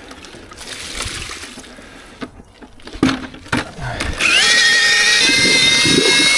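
A few knocks, then about four seconds in an electric paddle mixer spins up with a short rising whine and runs steadily, churning wet concrete.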